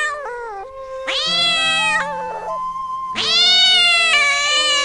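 Domestic cat meowing: a short falling call at the start, another meow about a second in, and a long drawn-out meow from about three seconds in.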